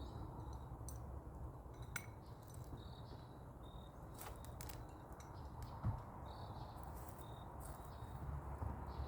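Faint outdoor ambience: short high chirps repeating every second or so, a few sharp clicks, and a low rumble of wind on the microphone, with one louder knock just before the six-second mark.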